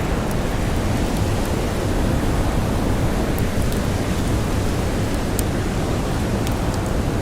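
Blizzard wind blowing steadily, a dense rumbling rush, with small sharp crackles of a wood campfire scattered through it.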